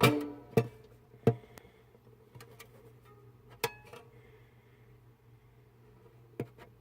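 A few sharp clicks and knocks, some with a brief ringing tone after them, over a steady low hum.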